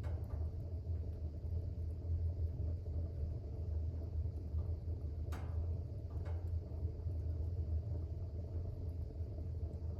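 Wood fire burning in a fireplace: a steady low rumble of the flames, with two sharp crackles just past the middle.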